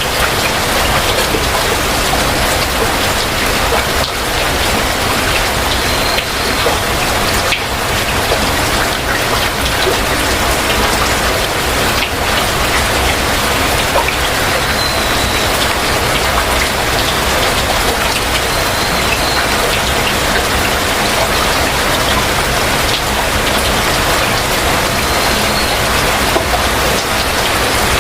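Heavy rain falling steadily in a dense, even patter. A few brief, faint high bird notes come through it now and then.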